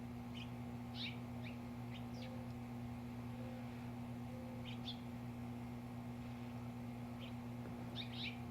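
Small birds chirping in short, scattered clusters of quick high notes, over a steady low hum.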